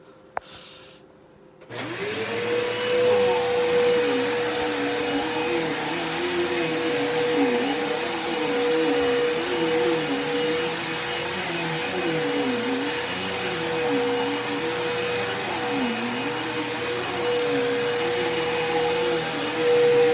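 Bissell PowerForce Turbo upright vacuum cleaner switched on about two seconds in, its motor spinning up quickly to a steady whine, with a lower tone wavering up and down as it runs.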